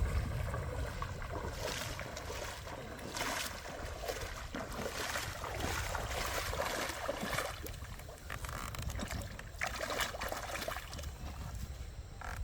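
Small tractor engine running steadily, a low rumble with uneven hissing noise rising and falling over it.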